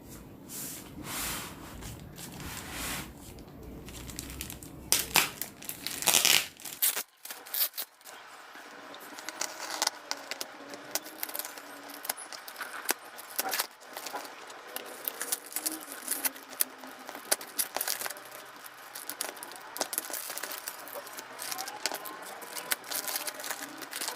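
Parcel packaging being handled, crinkled and torn at while someone struggles to get it open. A few louder knocks in the first several seconds, then a long run of small rustles and crackles.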